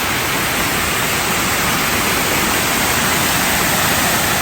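A 20-metre waterfall pouring down: a loud, steady rush of falling water.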